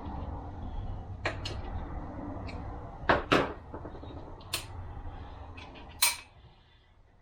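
Irregular clicks and metallic knocks of transmission parts being handled on a workbench, the two loudest a little after three seconds and a sharper clank about six seconds in, over a low rumble that drops away just after it.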